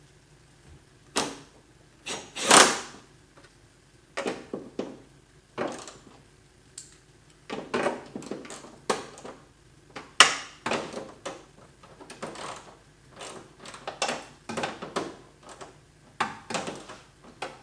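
Hand screwdriver and small tools working the rear spoiler's mounting screws: irregular clicks, taps and short scrapes in small clusters, with a few louder knocks.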